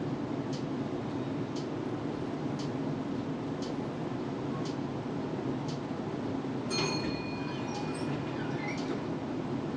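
Inside a Melbourne tram: a steady low rumble with light ticks about once a second. About seven seconds in there is a brief metallic ring with a few clear tones.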